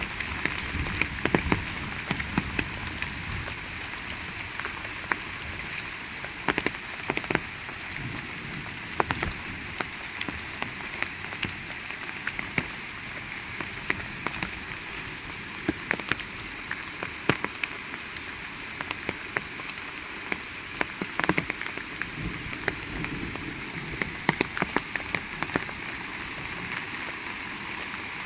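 Heavy rain falling steadily, with many sharp close drop hits scattered through it.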